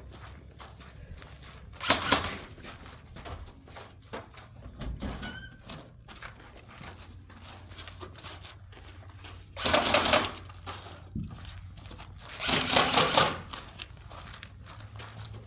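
Airsoft rifle firing three short bursts of rapid shots, about 2 s, 10 s and 13 s in.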